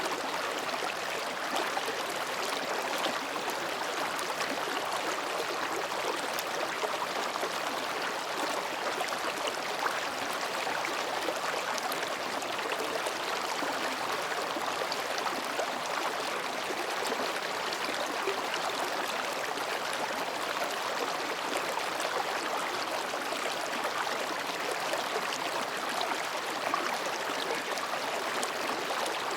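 Mountain stream babbling over and between rocks: a steady, even rush of water.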